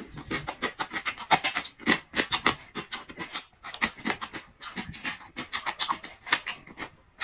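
Close-miked chewing of a dried tofu roll wrapped around raw scallion: a fast, irregular run of crisp crunches.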